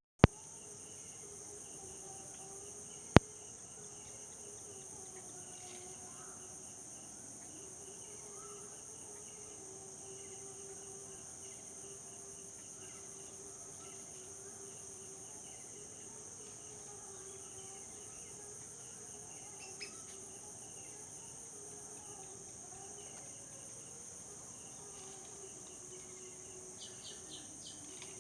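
Steady, high-pitched insect chorus, like crickets, running without a break. Two sharp clicks near the start, a few seconds apart, are louder than the chorus.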